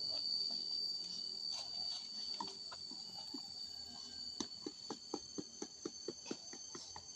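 Steady high-pitched chirring of insects, crickets or cicadas. About halfway through, a quick run of about ten sharp knocks comes at about five a second, then stops.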